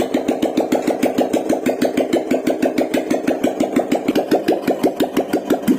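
Royal Enfield Classic 350's single-cylinder engine starting and running with its silencer open, a loud, even beat of about eight or nine exhaust pulses a second.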